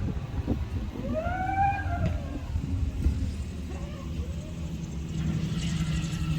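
Wind rumble on the microphone, with a brief rising-and-falling whistle-like tone about a second in. About five seconds in, a steady engine drone starts and holds.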